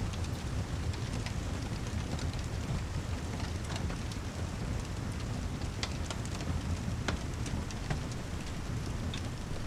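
Heavy rain falling steadily over a deep low rumble, with scattered sharp ticks and crackles.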